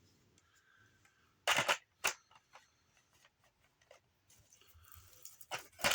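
A few short clicks and knocks: a double one about a second and a half in and another just before the end, with faint ticks between.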